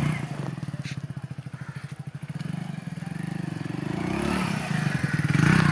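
Motorcycle engine running with a fast, even beat, picking up and rising in pitch from about four seconds in as it is revved.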